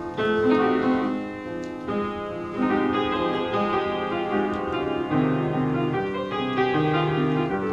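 Solo piano playing a melodic interlude, with notes and chords changing every second or so.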